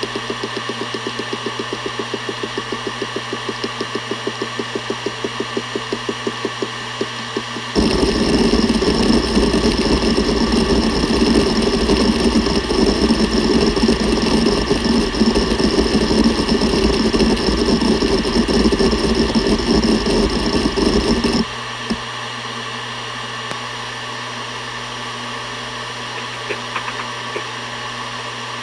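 Seagate Barracuda ES.2 ST31000340NS 7200 rpm hard drive spinning with a steady hum while its heads seek, ticking rapidly and evenly. About eight seconds in, the seeking becomes a much louder, dense churning that stops abruptly some fourteen seconds later. The drive then spins more quietly, with only a few scattered seek ticks.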